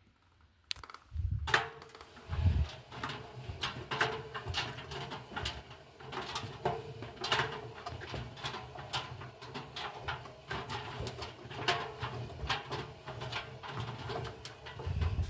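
Indesit washing machine's motor starting up and turning the drum slowly, with a steady hum and irregular clicks and thuds from the laundry tumbling inside; it stops at the end.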